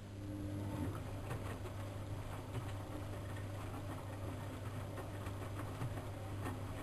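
Siemens Siwamat 6143 washing machine running: a steady low hum sets in right at the start, with a brief higher tone in the first second, over irregular light clicks and patter.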